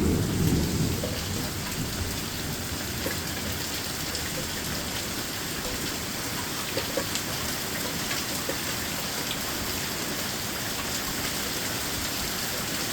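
Thunderstorm: a low rumble of thunder fading away in the first second or so, then steady rain falling.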